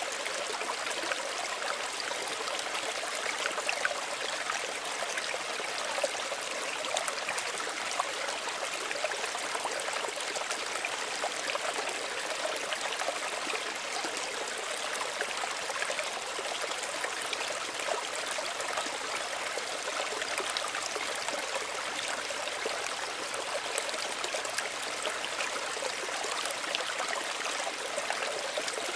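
Small stream of running water, a steady gentle rush with many small trickling splashes.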